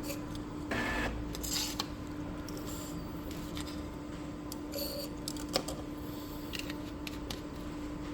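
Epson L3256 inkjet printer's mechanism working: a steady hum broken by short whirs and scattered sharp clicks.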